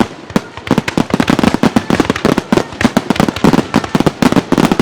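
Fireworks display: a rapid barrage of shells bursting, many sharp cracks and deeper booms a second overlapping one another, easing for a moment just after the start and then coming thick again.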